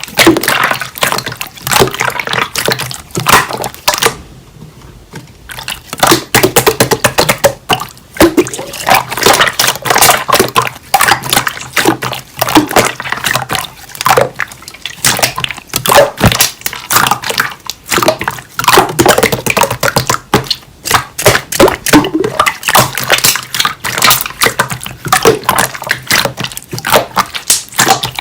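Slime being squished and pressed by hand: a dense run of wet, sticky clicks and small pops, with a pause of about two seconds about four seconds in.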